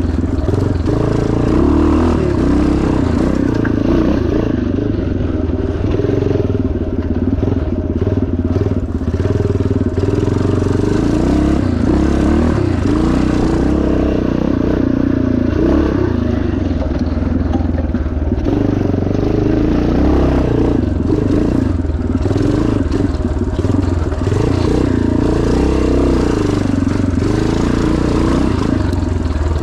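1977 Yamaha TT500's single-cylinder four-stroke engine running hard under racing load, its pitch rising and falling with the throttle, with rattles and clatter from rough ground.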